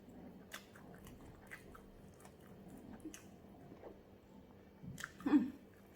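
A person chewing a mouthful of pounded yam, ogbono soup and bushmeat close to the microphone, with scattered small wet smacks and clicks. There is a louder mouth sound about five seconds in.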